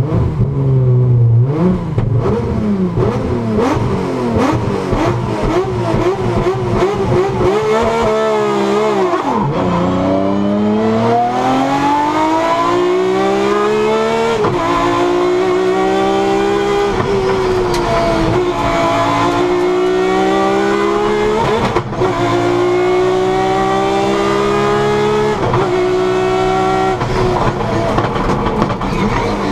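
Rally car engine heard from inside the cockpit, driven hard on a stage. The revs rise and fall sharply for the first few seconds and drop deeply about eight seconds in. After that the pitch climbs steadily several times, each climb ending in a sudden drop at a gear change.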